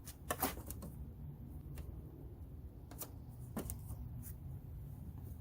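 Scattered sharp clicks and taps of a picker tool and fingers working plastic push-pin trim clips out of a car's front-end panel, the loudest about half a second in.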